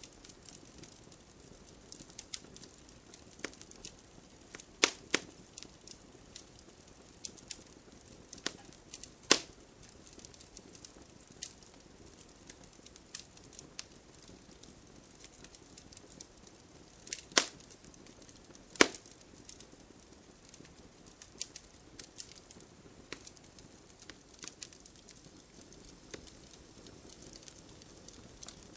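Wood bonfire crackling: irregular small pops and ticks with four louder snaps, two of them close together about two thirds of the way through, over a faint steady hiss of rain.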